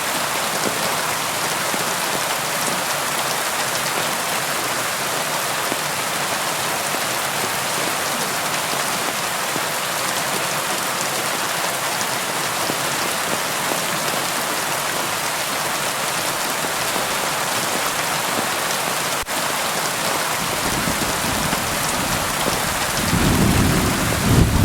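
Steady rain drumming on a tin roof, an even hiss. Near the end a low rumble of thunder swells in.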